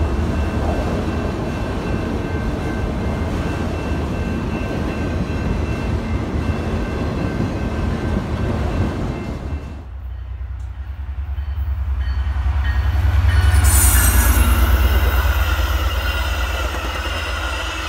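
Freight train of autorack cars rolling steadily past, a dense rumble of wheels with faint steady high tones. After a sudden change about ten seconds in, a Metra bilevel commuter train passes close, its deep rumble swelling to a peak a few seconds later with high squealing over it.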